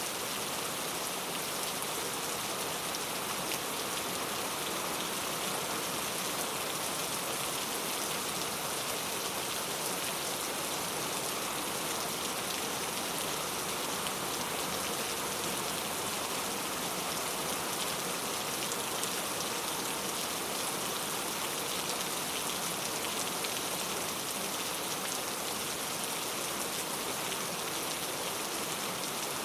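Steady rainfall: an even hiss of many drops that holds at the same level throughout.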